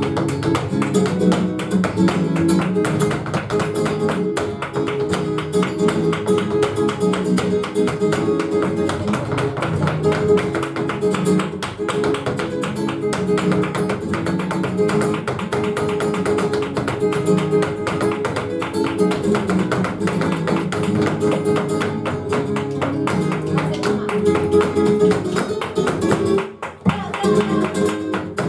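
Flamenco acoustic guitar playing a petenera, with dense, rapid percussive tapping running through it. The music drops out briefly near the end, then picks up again.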